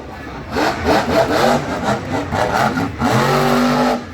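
Monster truck engine revving in quick repeated blips, then held steady for about a second before cutting off near the end.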